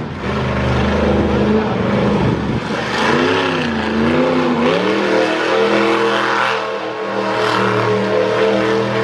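Monster truck engine running at high revs. Its pitch holds steady, wavers up and down a few times around the middle, then holds steady again.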